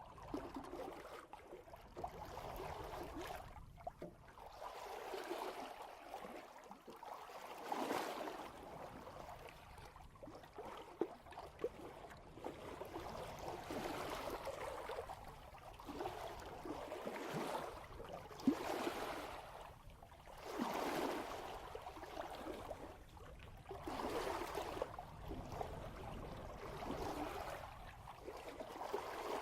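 Water rushing and gurgling along the bow of a sailboat moving at about 3 knots, swelling and easing every two to three seconds, with a few brief sharp splashes.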